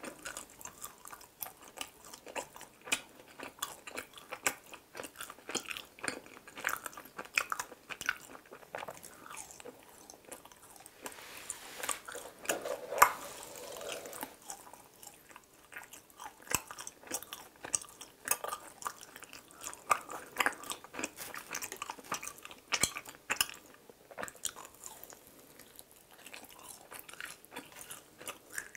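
Close-miked chewing of a sugar-coated mini chapssal (glutinous rice) donut: soft crunches and many small wet mouth clicks, with one sharper, louder click near the middle.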